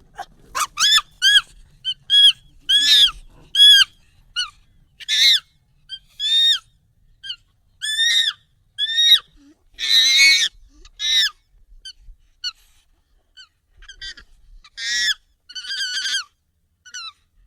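Monkey calls, sped up and pitched up: a run of short, high calls, each rising and falling in pitch, coming one or two a second, with a louder, harsher call about ten seconds in.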